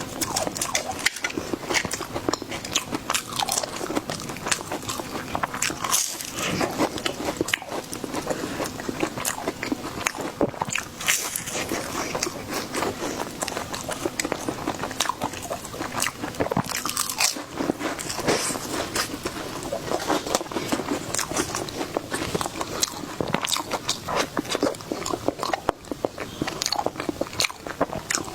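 Close-miked biting and chewing of crunchy sweet desserts, with a dense run of sharp, irregular crunches.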